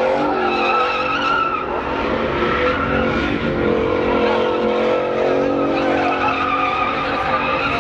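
A truck doing a burnout: the engine is held at high revs while the spinning rear tyres squeal. The pitch wavers slightly but keeps on without a break.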